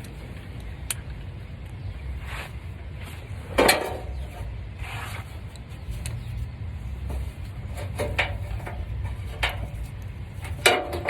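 Scattered metallic clinks and knocks of hand tools and car parts being handled under a car, with one louder knock about three and a half seconds in and a few more near the end, over a low steady rumble.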